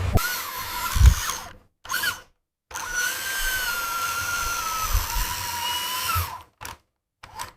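A small electric motor whining like a drill, its pitch sliding up and down as it works. It is broken twice by short dead silences.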